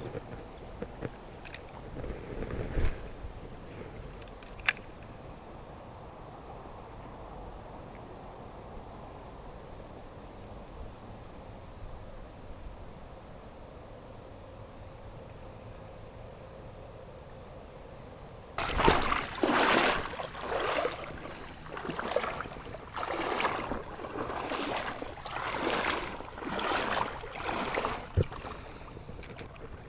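River water running steadily, with a couple of sharp clicks in the first few seconds. About two-thirds of the way in, a series of irregular sloshing splashes of water starts.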